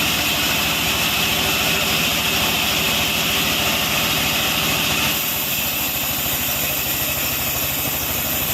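Sawmill machinery running steadily, with a dense low mechanical drone; about five seconds in, its higher-pitched part drops away and the sound gets slightly quieter.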